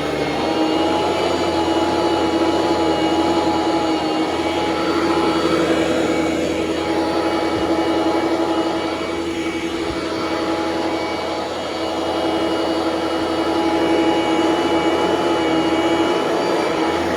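Bissell ProLite bagged vacuum cleaner running steadily, a motor whine over rushing airflow. Its loudness rises and falls a little.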